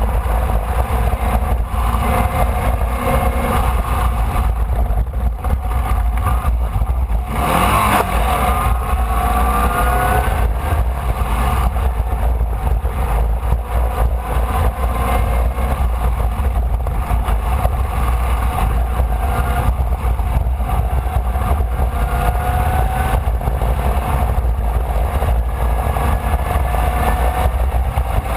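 Formula Vee's air-cooled Volkswagen flat-four engine running at racing speed, heard from onboard, its pitch climbing again and again as it accelerates through the gears. A heavy, steady low rumble sits under it, and there is a brief, rougher burst about eight seconds in.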